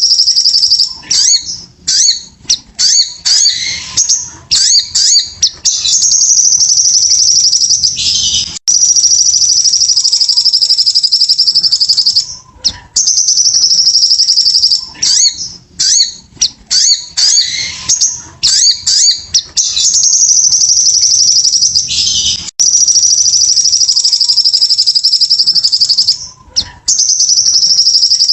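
Sogon (sogok ontong) bird song played as a lure recording: long high-pitched trills of two to three seconds alternate with runs of short, sharp chirps. The same sequence repeats about every fourteen seconds.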